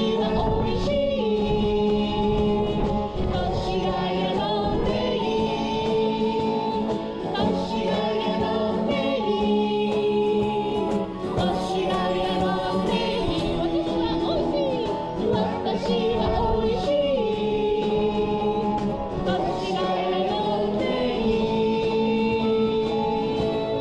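Live pop singing: voices holding long notes in harmony, gliding between pitches, with wind rumbling and buffeting on the microphone.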